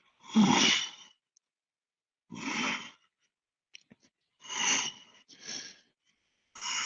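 A man's audible breaths, sighing out five times. The first, just after the start, is the loudest and fullest, and the rest are softer and come every one to two seconds.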